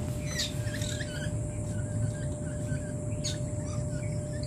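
Caged aviary birds chirping: a run of short, small chirps, two or three a second, with a few sharper calls. Under them runs a low background rumble and a faint steady tone.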